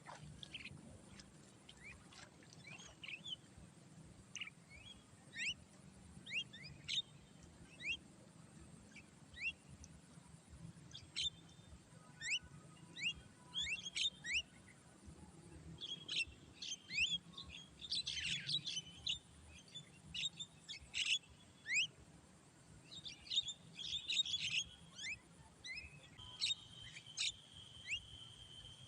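Birds chirping: many short, sharp rising chirps, sparse at first and busier from about halfway through. Near the end a steady high-pitched tone comes in.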